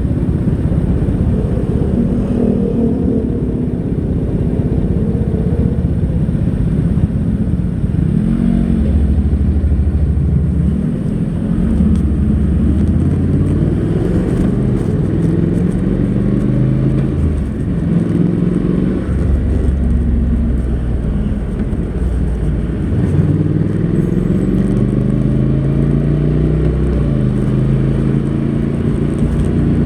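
Honda NC700X's 670 cc parallel-twin engine on its stock exhaust, pulling under way. Its pitch climbs and then drops again and again as the dual-clutch gearbox shifts.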